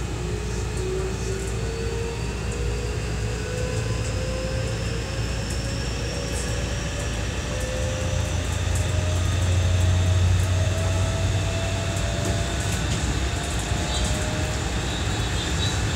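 Running sound of a JR West 207 series 1000-subseries (refurbished) commuter train heard from inside the car: the traction motor whine rises steadily in pitch as the train gathers speed, over a constant rumble of wheels on rail that swells briefly midway.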